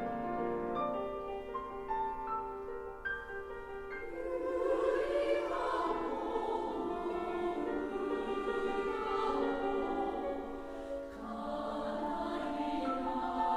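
Piano playing single notes, then a women's choir enters about four seconds in and sings over the piano accompaniment.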